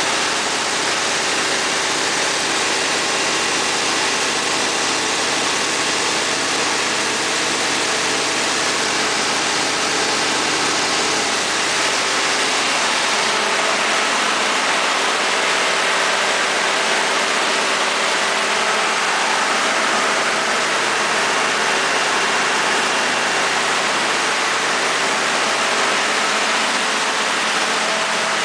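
Cummins NTA-855-G2 turbocharged inline-six diesel engine of a 300 kW generator set running steadily.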